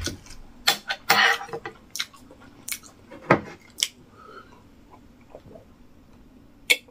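Close-miked chewing of a mouthful of rice and stew, with sharp wet mouth smacks and clicks in the first few seconds. The second half is quieter while he sips from a mug, with one more sharp click near the end.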